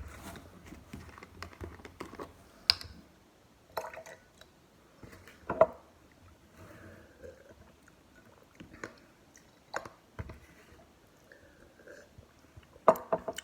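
Quiet sipping and swallowing while tasting coffee, broken by about half a dozen sharp clicks and knocks of cups and a carton being handled and set down, the loudest near the end.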